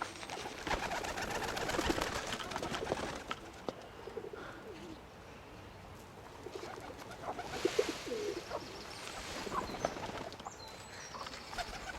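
Birds calling in a crowd, with stretches of rustling and clicking noise, the first about a second in and another around eight seconds in.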